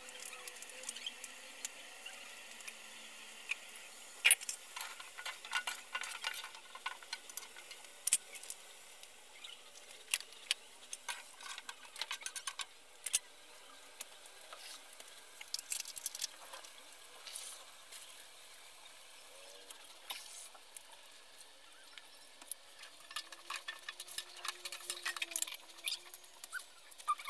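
Chicken feet frying in a pan: a faint steady sizzle with irregular clusters of sharp crackling pops.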